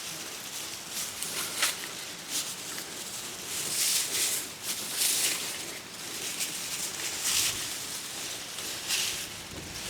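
Irregular rustling swishes of dry cut grass being handled and spread as mulch, a crisp swish every half second to a second.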